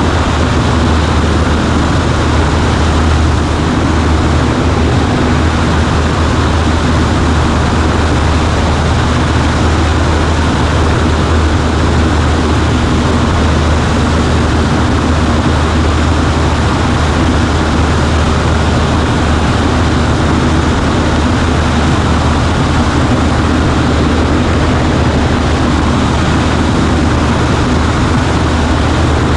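Cessna 140A's piston engine and propeller running steadily, heard from inside the cabin as a loud, unchanging drone with a deep hum under it.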